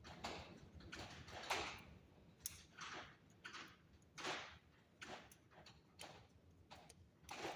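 Copper wire being bent and handled at a workbench: faint, irregular clicks and short scrapes, one or two a second.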